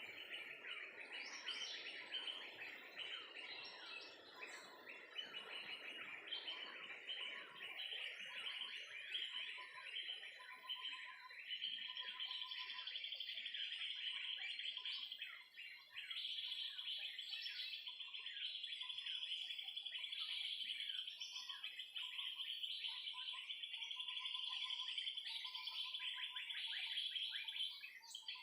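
Several birds chirping and calling at once, dense quick notes overlapping, with a steady high trill running under them from about twelve seconds in. A low rushing noise sits beneath the birds for the first few seconds.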